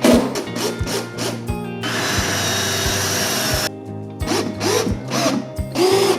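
A power drill runs in one steady burst of nearly two seconds, starting about two seconds in, over background music with a regular beat.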